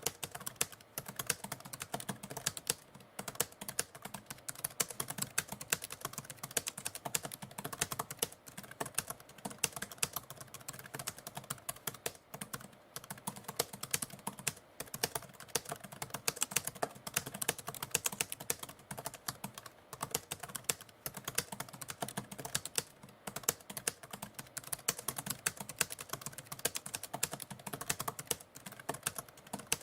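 Typewriter keys clacking in rapid, continuous typing, with dense irregular strikes and no pauses.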